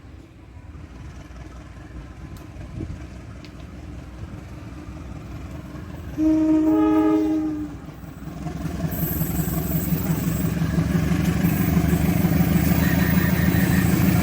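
Train horn sounding once for about a second and a half, then the rumble of an approaching train growing steadily louder.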